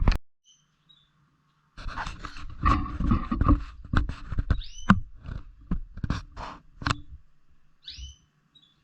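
Pet lovebirds moving about, a busy run of scratching, rustling and clicking noises, with two short chirps that glide downward, one about halfway through and one near the end.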